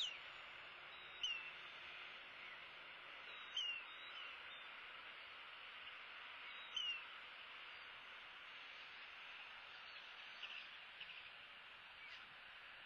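Faint, scattered short, high bird chirps, each sliding quickly downward, a few seconds apart, over a steady outdoor hiss.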